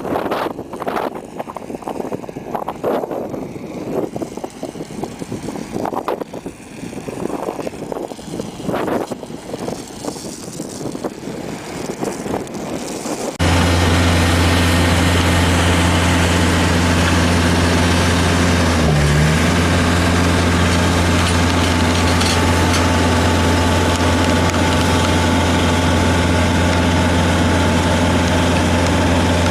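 Uneven, gusty noise for the first part, then a sudden cut about halfway in to a heavy machine's engine running steadily, a deep, even hum.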